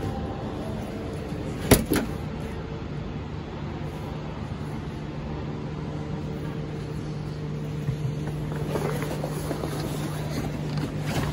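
Jeep CJ7 engine idling as a steady low hum. A sharp knock comes about two seconds in, with a softer one just after, and the camera rubs against the seat fabric.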